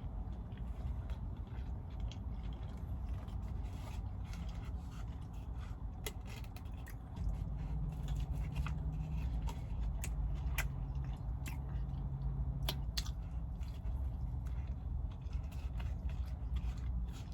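Close-up chewing and biting into a McDonald's burger, with scattered crackles and mouth clicks, over a low steady rumble that gets louder about halfway through.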